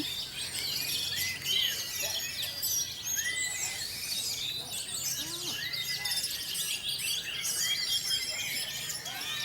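Many caged songbirds singing and chirping at once, their short calls and warbles overlapping continuously.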